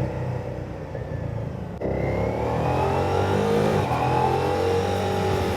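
Ducati Diavel V4's V4 engine idling just after being started, its pitch rising a little about two seconds in and then holding steady.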